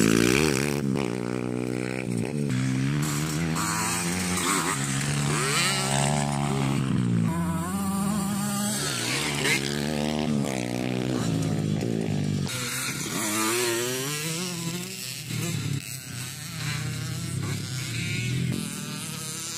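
Several motocross dirt bikes revving and running at once, their engine notes rising and falling as they accelerate and back off around the track.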